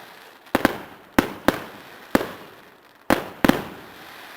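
Fireworks going off in the sky: a string of sharp bangs at irregular intervals, some in quick pairs, each trailing off with an echo.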